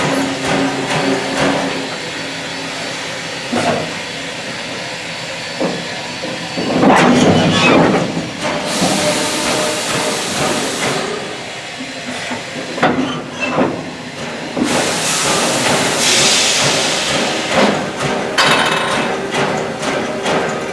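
Valley Railroad Mikado steam locomotive #40 and its train: irregular knocks and clanks of the running gear and cars, with two long hisses of steam, one in the middle and one a few seconds later.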